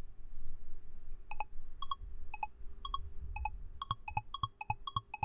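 Quiz countdown timer sound effect: short ticks beginning about a second in, about two a second at first, speeding up to about four a second near the end as the time runs out.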